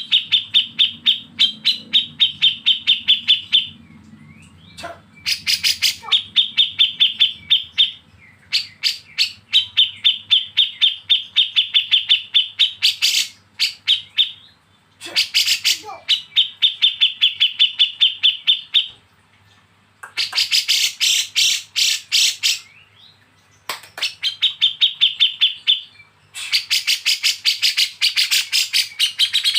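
A songbird singing the same fast, rattling trill over and over, about eight times. The notes sit around 3-4 kHz, and each phrase lasts two to four seconds with a short pause between phrases.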